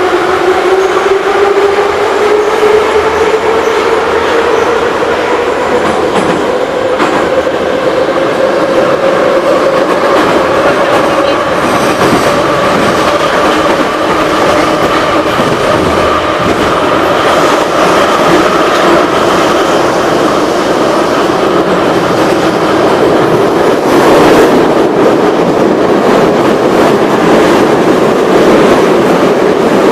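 Moscow Metro 81-717/714 'Nomernoy' train under way, heard from inside the car. The traction motors' whine rises in pitch over roughly the first fifteen seconds as the train picks up speed, then holds steady over the rumble of the wheels, with occasional clicks over rail joints.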